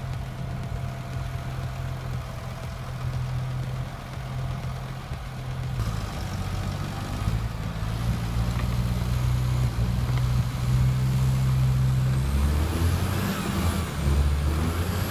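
A heavy engine running steadily, its pitch and load shifting a couple of times.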